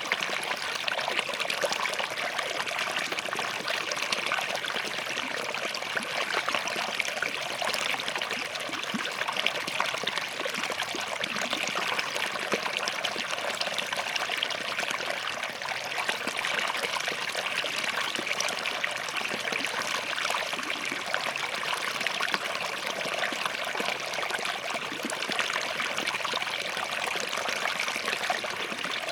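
Small forest stream running over and between rocks, a steady trickling and splashing flow.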